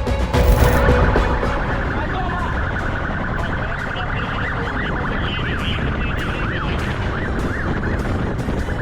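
Police siren sounding with quick rising-and-falling sweeps in pitch, over a steady low rumble of engine and road noise. A brief loud hit comes about half a second in.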